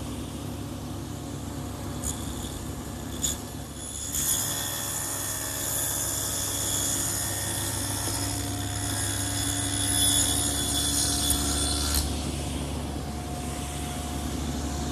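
Table saw with an adjustable dado head running steadily. From about 4 to 12 seconds in it gets louder and higher-pitched as the blade cuts a dado groove through wood, then it settles back to running free. There are two light knocks before the cut.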